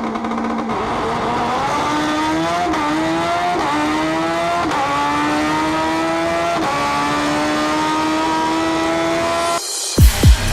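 Race car engine accelerating hard through the gears: its pitch climbs steadily and dips briefly at each of about five upshifts. About a second before the end it cuts off abruptly into electronic music with heavy bass.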